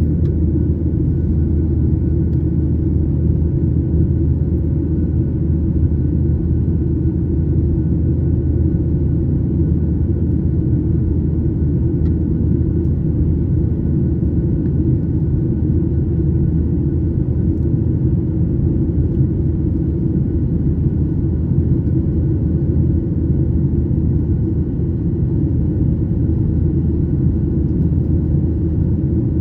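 Airliner cabin noise: a steady low rumble of the jet engines and airflow, unchanging throughout, with a faint steady hum above it.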